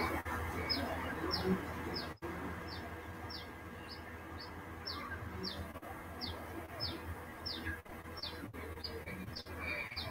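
A bird calling in a rapid series of short, high, falling chirps, about two a second, over a low steady hum.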